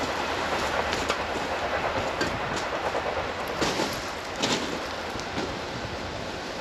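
Train running past on the rails: a steady rushing noise with a few sharp clacks, slowly fading as it moves away.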